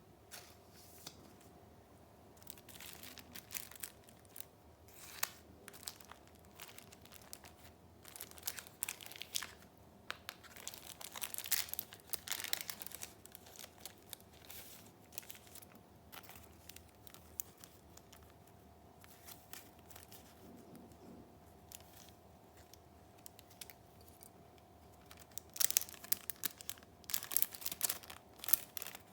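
Junk-journal papers handled by hand: paper rustling with light clicks and taps in irregular bursts, busiest about eight to thirteen seconds in and again near the end, with a quieter stretch between.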